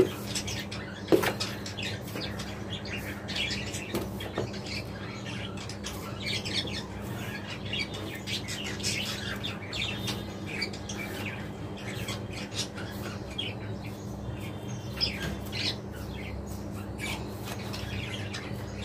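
A group of budgerigars chattering and chirping continuously in quick, short calls over a steady low hum. A single sharp knock sounds about a second in.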